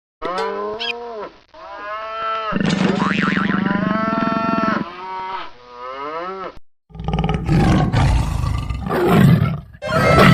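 A run of animal calls: several pitched calls that rise and fall, one of them long, then a rough roar with a deep rumble in the second half.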